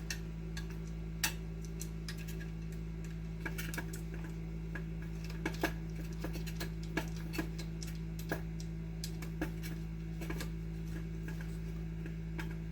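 Irregular small clicks and taps of hand tools and wire pieces being handled on a workbench, over a steady low electrical hum.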